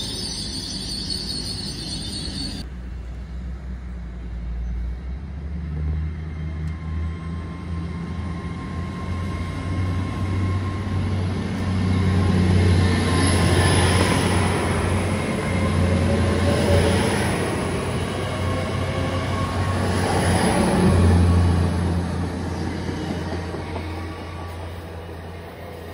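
TransPennine Express Class 802 train rolling past on the rails: a steady low rumble and hum of wheels and traction equipment that grows louder through the middle, with a few rushes as the bogies go by, then fades as the train draws away.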